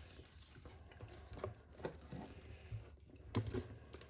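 Faint scattered clicks and light knocks from an RC car chassis and tools being handled on a workbench, with a low hum underneath.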